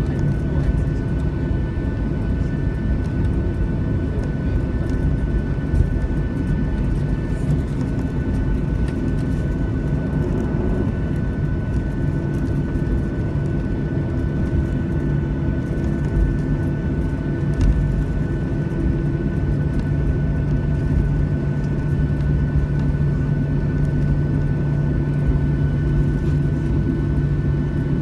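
Cabin noise of a Boeing 737-600 with its CFM56-7 turbofans at low power after landing, heard from inside the cabin: a steady hum with a few held tones.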